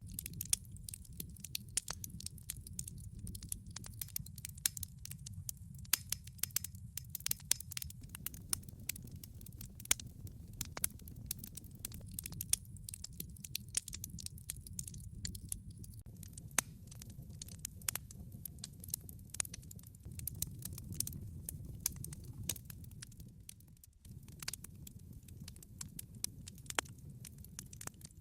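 Wood log fire in a fireplace crackling: many irregular sharp pops and snaps over a steady low rumble of burning.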